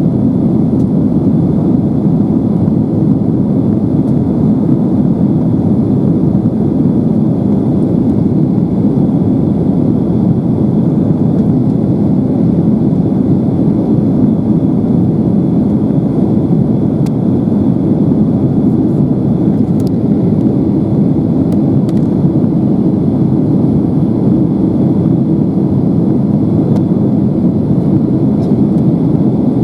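Steady, even jet-engine and airflow rumble inside the cabin of a Boeing 767-300ER airliner in flight or on its takeoff run.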